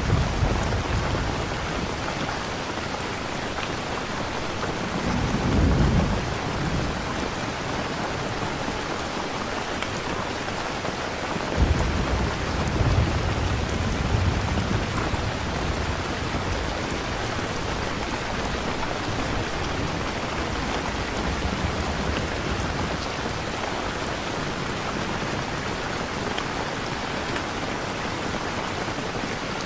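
Steady rain with rolling thunder: a low rumble swells about five seconds in, and another breaks suddenly near twelve seconds in and rolls on for a few seconds.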